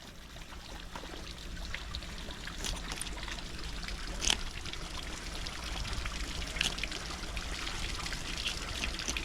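Water running and trickling steadily, as from a tap or hose, with a few sharp clicks and knocks scattered through it; the loudest knock comes about four seconds in.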